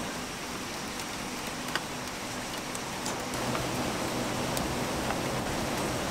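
Steady rain falling, with scattered drips and a faint steady low hum beneath it.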